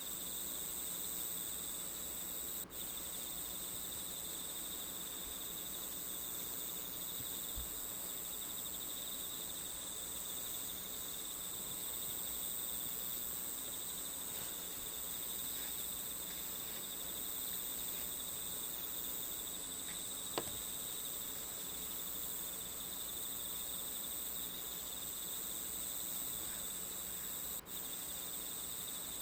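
Steady chorus of crickets chirring, with a single short click about twenty seconds in.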